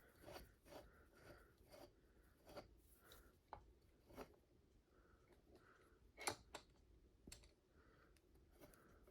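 Faint scattered clicks and light metal knocks as a bearing puller is worked onto a ceiling fan motor, with one sharper knock about six seconds in.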